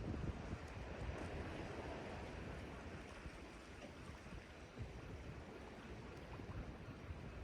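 Sea waves washing against the shore, with wind rumbling on the microphone.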